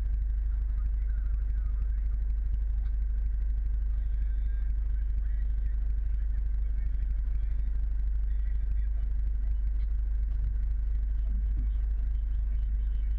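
Steady low rumble of a Scania truck's engine running, with no change in pitch or level.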